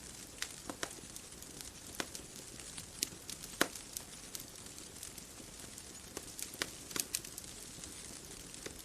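Bonfire crackling: irregular sharp pops and snaps of burning wood, several close together about two-thirds of the way through, over a soft steady hiss.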